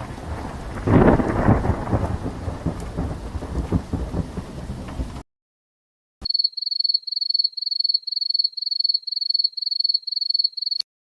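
Thunder rumbling over rain, swelling loudest about a second in and cutting off suddenly after about five seconds. After a short gap comes a high-pitched electronic beeping, about three beeps a second, that stops abruptly near the end.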